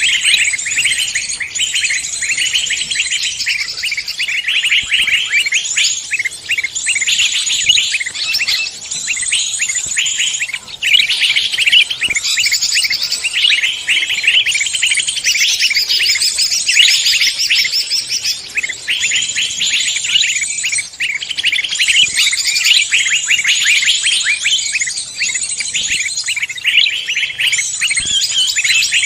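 A dense chorus of many forest songbirds chirping and trilling at once, a continuous busy tangle of rapid high-pitched calls.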